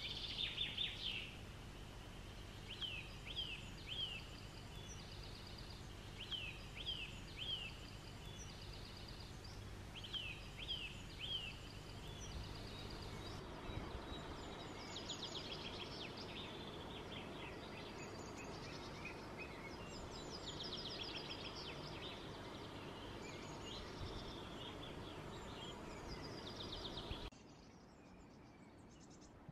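Songbirds singing over a steady low hum, at first in short phrases of about three chirps repeated every few seconds, then, about halfway through, in faster, denser trills from several birds. Near the end the bird song cuts off and only quiet room tone remains.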